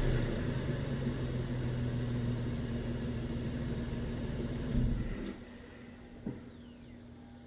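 Toyota 4Runner TRD Pro's 4.0-litre V6 settling from a rev into a steady idle through its exhaust, then shut off about five seconds in.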